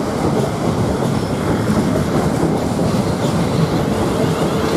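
South Western Railway Class 450 electric multiple unit running close past the platform, its wheels rumbling and clacking over the rail joints. A steady tone joins the rumble near the end.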